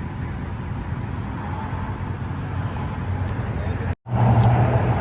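The Charger's 392 HEMI V8, straight-piped except for the cats, running with a steady low drone heard from inside the cabin along with road noise. The sound drops out for an instant about four seconds in and comes back louder.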